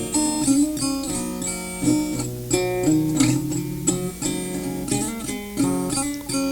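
Instrumental break in a rock song: guitars playing chords and a melody line, with no singing.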